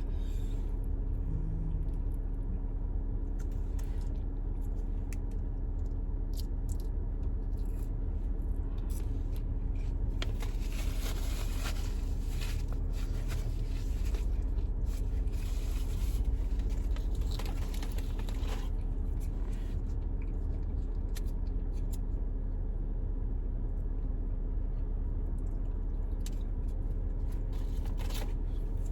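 Someone eating inside a car: chewing with rustling of food packaging and small clicks, over the car's steady low hum. The rustling comes in stronger bursts around the middle.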